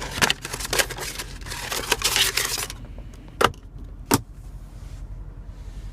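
Cables and small plastic parts rattling and rustling as they are handled in a car's center-console storage compartment, followed by two sharp clicks less than a second apart about three and a half seconds in.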